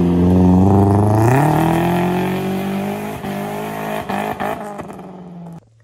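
Mitsubishi Lancer's four-cylinder engine as the car drives past, its pitch rising about a second and a half in as it accelerates, then fading as it pulls away. The sound cuts off suddenly near the end.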